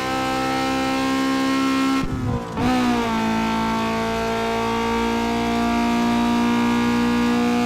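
Toyota Celica engine held at steady high revs, with a brief dip and swoop in pitch about two seconds in before it settles back to a steady note.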